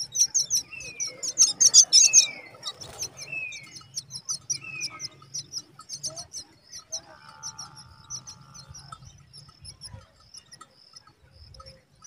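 Common myna nestlings begging at the nest with rapid, high chirping. It is loudest in the first couple of seconds, then thins out and fades, and a few short falling calls are heard in the first half.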